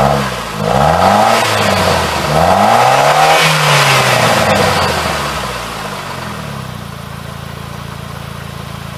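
Saab 9-3 car engine revved up from idle three times, each rev rising and falling in pitch, the third the longest, then settling back to a steady idle.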